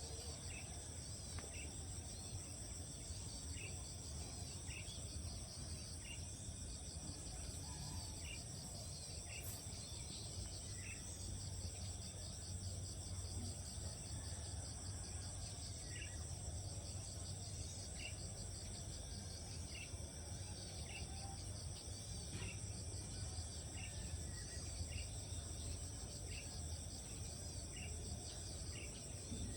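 Steady chorus of insects such as crickets, with a high even buzz and a fast pulsing trill beneath it. Short chirps repeat about once a second, along with a low rumble.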